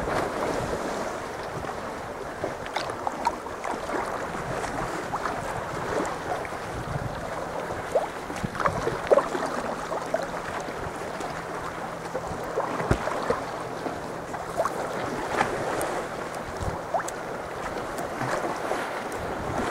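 Sea water lapping and splashing around a sea kayak, with many small irregular splashes and drips.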